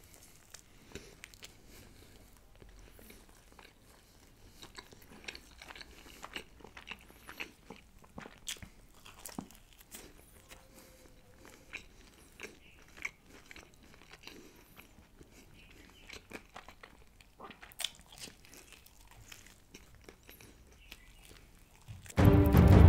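Close-miked chewing and biting of a slice of cheese-burst margherita pizza: soft, wet mouth sounds with small crunches of crust, scattered and fairly quiet. Loud music starts suddenly near the end.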